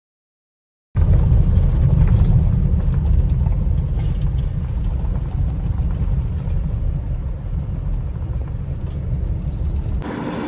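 JCB backhoe loader's diesel engine working, a loud low rumble that starts abruptly about a second in after silence.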